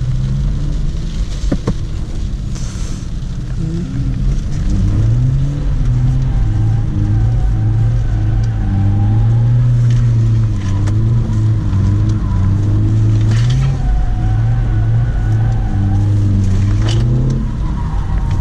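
BMW E46 320d's M47 four-cylinder turbo diesel engine revving up and down repeatedly under throttle while the car is drifted, getting louder about four seconds in.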